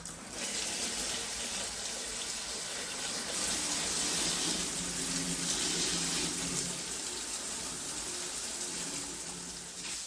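Water running in a steady stream, starting abruptly. It is likely rinsing dust and debris out of a refrigerator condenser coil.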